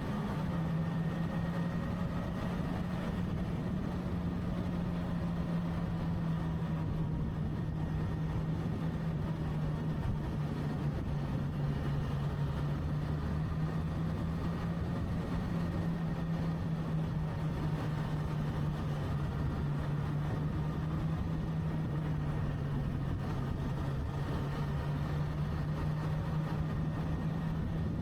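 Motorcycle engine running at a steady cruising speed with a low rumble, its pitch dropping slightly about twenty seconds in.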